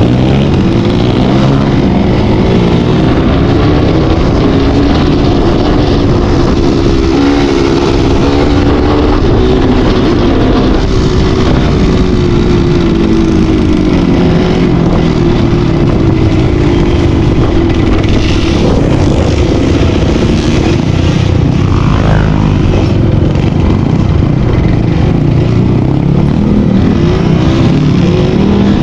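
Off-road motorcycle engine revving up and down continuously as the bike is ridden over rough terrain.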